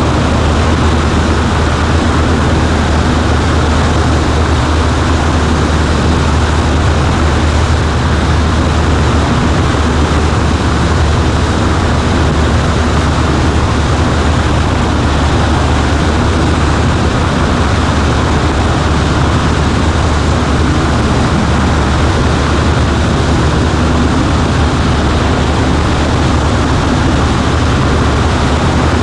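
Cessna 140A light airplane's piston engine and propeller droning steadily at constant power, heard from inside the cockpit.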